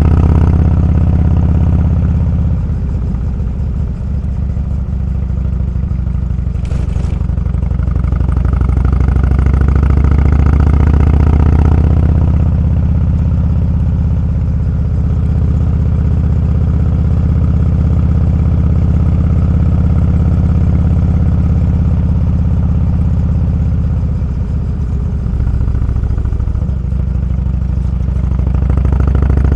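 Motorcycle engine running under way on the road, its low steady note easing off briefly a few seconds in and again near the end. A short tick sounds about seven seconds in.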